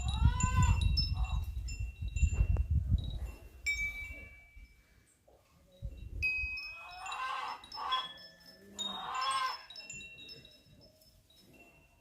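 Wind chime ringing, with long overlapping tones at several pitches. Two louder animal calls, rising then falling in pitch, come about seven and nine seconds in, and a low rumble fills the first three seconds.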